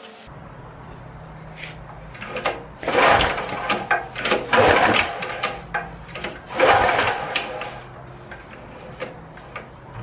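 Recoil pull-starter on a 13-horsepower pressure washer engine being yanked about three times, each pull a loud rasping whirr, with the engine not catching: the fuel port where the hose joins was clogged with dirt. A steady low hum runs underneath.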